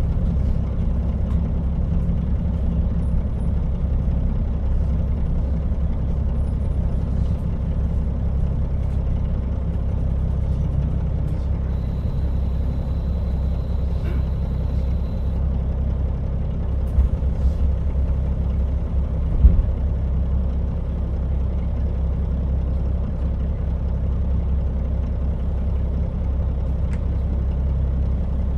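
KiHa 40 diesel railcar running along the line: a steady low rumble of engine and wheels on rail. A thin high tone sounds for a few seconds near the middle, and two short knocks come a little later.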